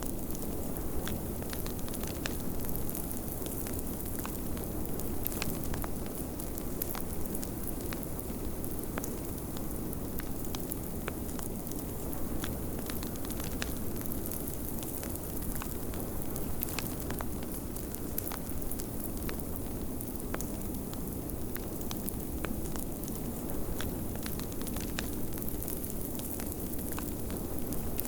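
Wood fire crackling in a fireplace, with frequent small irregular pops over a steady low rush of blizzard wind.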